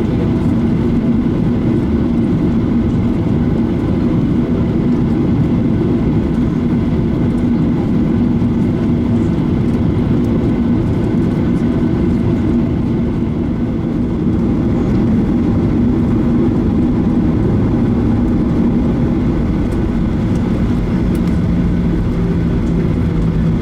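Steady cabin noise of a Boeing 737-900ER with its CFM56 jet engines running, heard from inside the passenger cabin as the aircraft taxis: a constant low rumble with a steady low hum.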